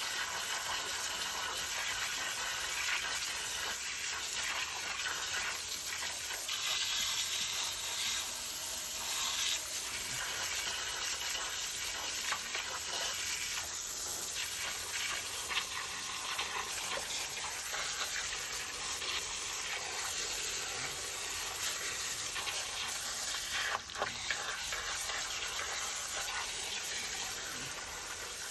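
Steady hissing spray of water with crackling spatter, washing caked mud off the mini excavator's frame, with a brief break and a click about 24 seconds in.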